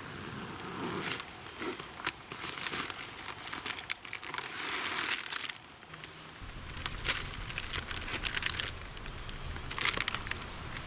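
Irregular crinkling and rustling in bursts, with a low rumble joining about six seconds in.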